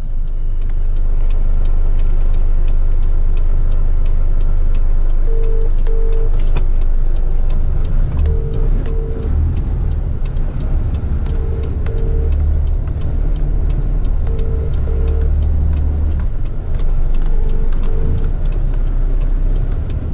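Heavy rigid truck's engine running, heard from inside the cab as a steady low drone. From about five seconds in, a pair of short beeps repeats about every three seconds.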